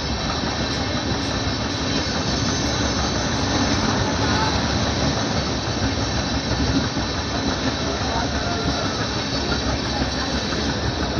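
Passenger train running, heard from inside a sleeper-class coach: a steady rumble and hiss of the wheels on the rails.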